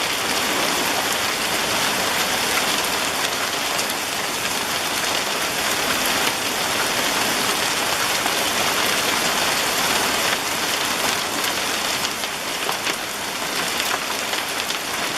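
Hail pelting down heavily in a storm: a steady, dense hiss full of small sharp ticks from hailstones striking.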